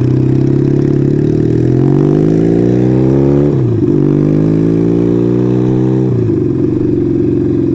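Motorcycle engine, a 1975 Kawasaki KZ400 twin, pulling under acceleration: its pitch climbs, drops sharply about three and a half seconds in, climbs again and drops about six seconds in, then holds steady, as the rider shifts up twice.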